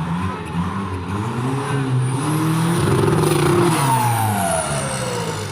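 Off-road 4x4's engine revving: it climbs in pitch to its loudest about three seconds in, then eases off and falls in pitch, with a whine sliding down near the end.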